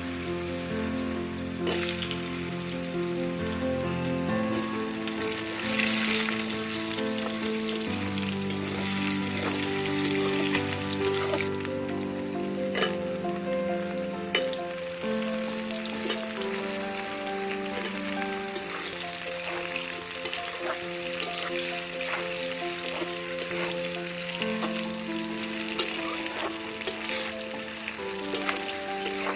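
Potato wedges and eggplant pieces sizzling as they fry in oil in an iron wok (kadai), with a steel spatula stirring and scraping through them. Two sharp knocks sound about halfway through.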